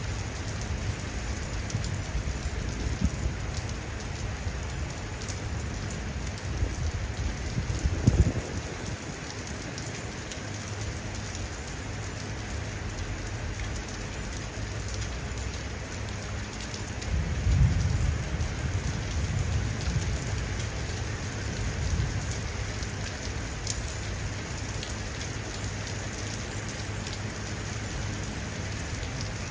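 Steady rain falling, with low thunder rumbling underneath: a sudden low thump about eight seconds in and a longer rumble swelling around seventeen seconds in.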